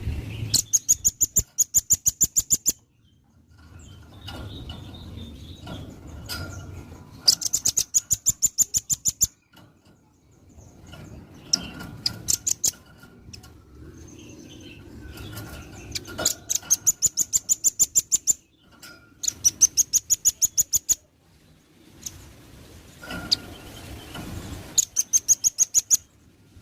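Velvet-fronted nuthatch calling in rapid trills of sharp, high notes, about seven a second. It gives five trills of about two seconds each, with pauses between them.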